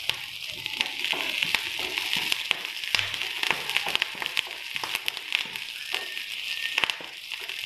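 Sliced onions, curry leaves and green chillies sizzling in hot oil in a frying pan, a steady hiss with many small crackles, as the tempering for a chicken curry is sautéed.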